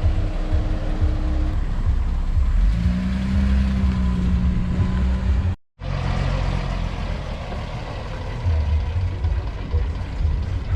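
Classic car engines running close by, a low rumble with a steady engine hum that steps up slightly in pitch about three seconds in. The sound drops out briefly a little past halfway, at a cut, then the engine rumble continues.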